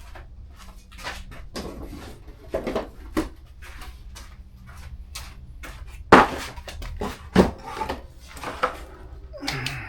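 Scattered metallic clinks, knocks and handling noises as motorcycle exhaust parts are worked on by hand. The two loudest knocks come about six and seven and a half seconds in.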